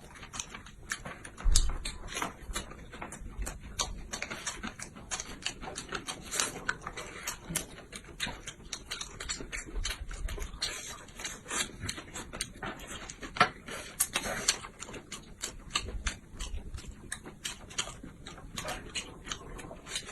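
Close-miked eating: a stream of irregular chewing and mouth clicks and smacks, with a few louder ones about a second and a half in and near the middle.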